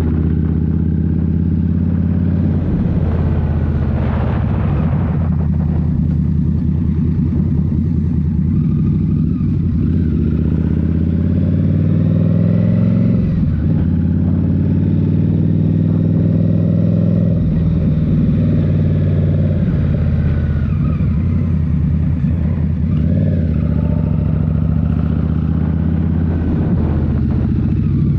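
Indian Scout Rogue's 69 cubic-inch V-twin engine running under way through a Rinehart slip-on exhaust, its note rising and falling a few times with the throttle.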